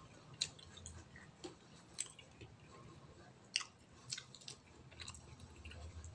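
A man chewing cooked octopus and rice close to the microphone, with wet mouth clicks and smacks. The three sharpest smacks come about a second and a half apart, the loudest about three and a half seconds in.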